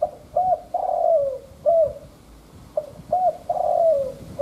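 Spotted dove cooing: two phrases about three seconds apart, each of two short coos, a longer falling coo and a final short coo.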